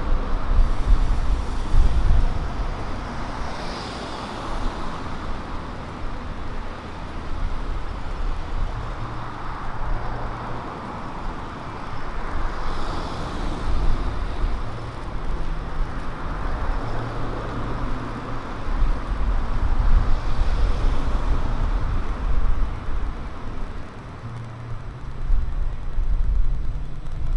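Road traffic on a city street: cars passing one after another, the engine rumble and tyre noise swelling and fading with each vehicle.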